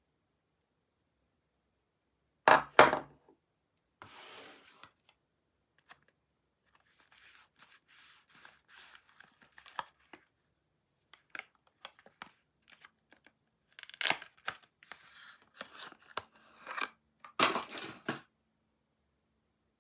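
Soap packaging being torn open and handled: short bursts of tearing and crinkling wrapper with scattered small clicks and rustles in between. The loudest tears come about two and a half seconds in and again near the end.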